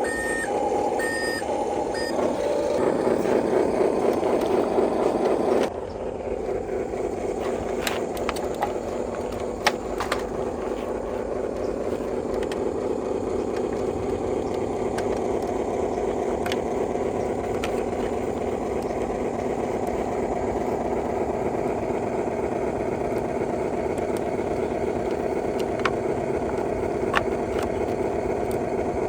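Toy RC construction vehicles running with a steady electric-motor and gear whir. A short electronic beep repeats near the start, like a reversing alarm. About six seconds in the sound drops abruptly, and a few sharp clicks come later.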